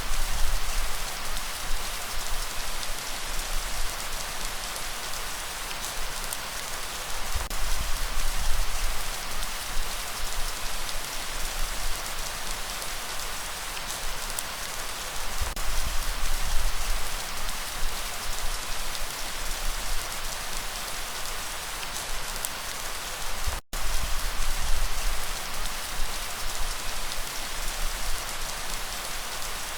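Steady rain falling on a surface, an even hiss of many drops over a low rumble that swells and fades. The sound cuts out completely for a split second about three-quarters of the way through.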